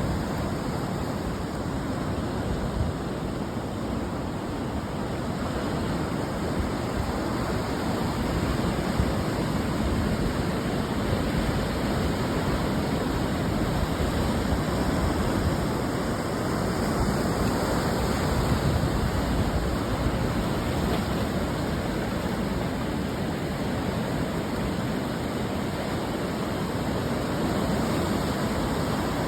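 Ocean surf washing onto a beach: a steady, dense rush of breaking waves that swells a little in the middle and eases toward the end.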